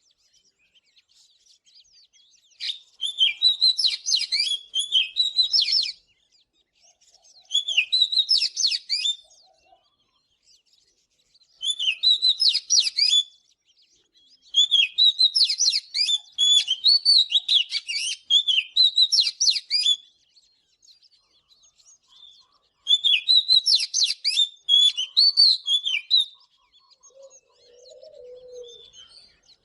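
Oriental magpie-robin singing: five loud phrases of fast, varied whistles and chirps, the longest about five seconds, separated by short pauses.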